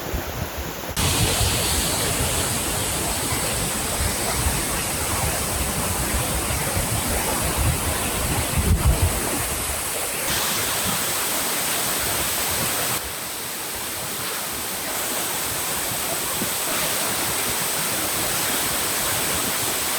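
Materuni waterfall: a steady rush of falling water, with wind buffeting the microphone in the first half. Its level shifts abruptly a few times.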